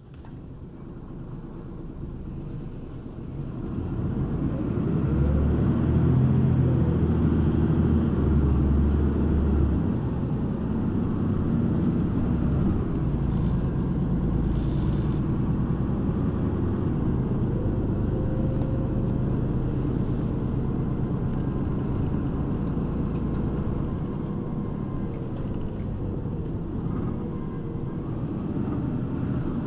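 City bus engine and road rumble heard from inside the cabin. The bus pulls away, with the engine note rising over the first few seconds, then runs steadily. A brief high hiss comes near the middle.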